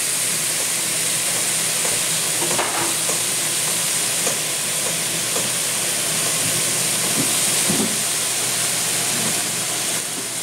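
Bacon-wrapped chicken sizzling steadily on a hot stovetop griddle, the bacon crisping as it sears.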